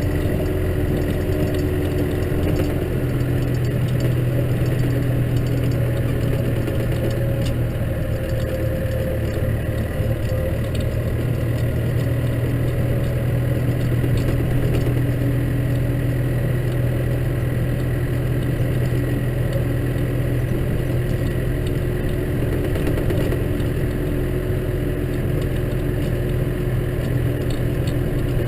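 Case tractor's diesel engine running steadily while it works through snow, with a low hum that grows stronger about three seconds in.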